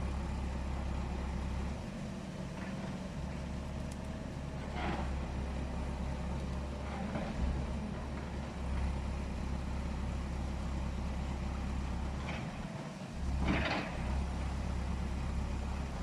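Heavy vehicle's engine running steadily with a low hum, with a few short, louder noises over it, the loudest near the end.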